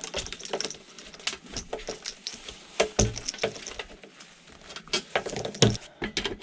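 Irregular clicks, clinks and knocks of metal parts and tools being handled as a coffee machine is taken apart, some strikes ringing briefly.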